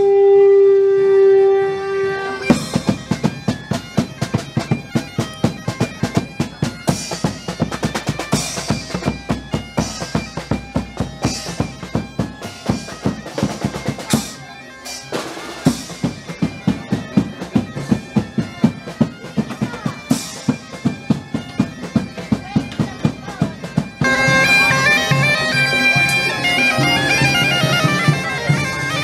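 Medieval-style bagpipe and drum music: a long held pipe note, then steady rhythmic drumming with a brief lull about halfway through, and near the end the pipes come back in with a melody over the drums.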